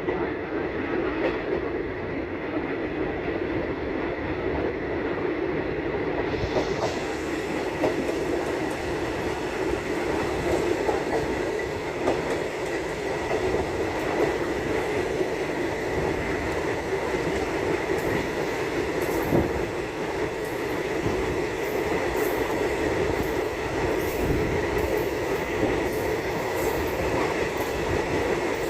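A moving train running along the track: a steady rumble of the wheels with a constant thin whine. It gets brighter and hissier about a quarter of the way in, and short sharp clicks come through in the second half.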